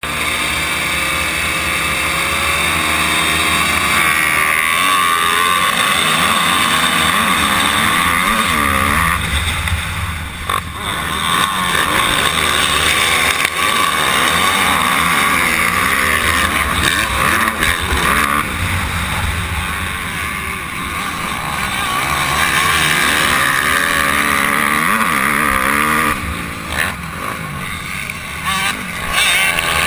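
Honda CRF250R four-stroke single-cylinder motocross engine, heard from the rider's helmet camera, revving up and down continuously. There are short dips in engine level, about ten seconds in and again near the end.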